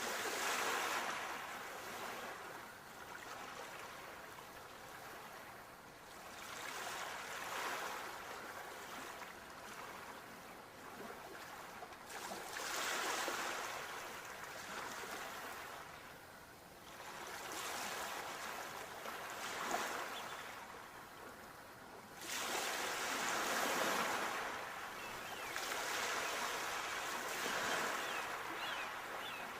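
Ocean waves breaking on the shore. Each wash of surf swells and fades, about six in a row, one every four to five seconds.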